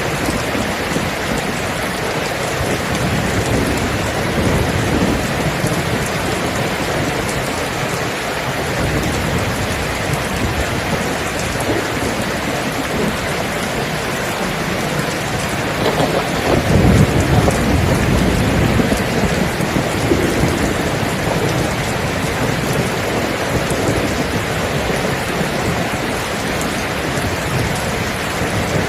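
Steady heavy rain falling, with a low rumble of thunder swelling about halfway through and fading over a few seconds.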